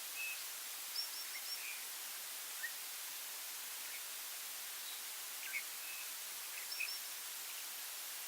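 Small birds chirping in short, scattered calls, including quick runs of three high notes, over a steady high hiss of breeze or insects.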